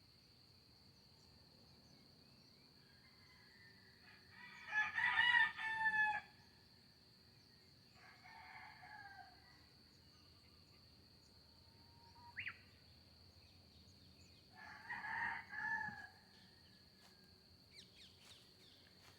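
Roosters crowing three times, the loudest crow about five seconds in and two fainter ones later, with a short bird chirp in between.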